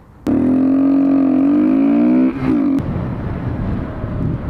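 Kawasaki Z125 Pro's single-cylinder engine running at high revs on the move, a loud steady pitched note that starts abruptly. About two and a half seconds in the note drops and gives way to a rougher engine rumble mixed with wind and road noise.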